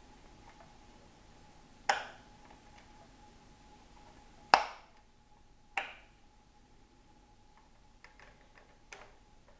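Ufesa VP-6614 electric fan: four sharp plastic clicks of its controls over a faint steady motor hum. After the loudest click, about halfway, the airflow hiss and the lower hum drop away, as when the fan is switched down or off.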